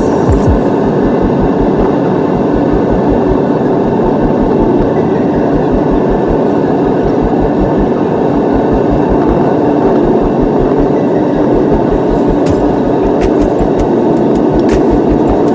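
Steady loud roar inside a Boeing 777 cabin, the noise of the engines and airflow, with a fast, even low thudding underneath.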